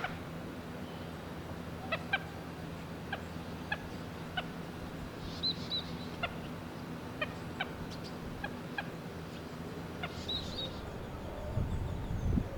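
Common gallinules giving short, sharp clucking calls, about a dozen at uneven intervals with a few higher chirps among them: the adults' constant contact calls to their chick. A steady low mechanical hum runs underneath, and a low rumble comes in near the end.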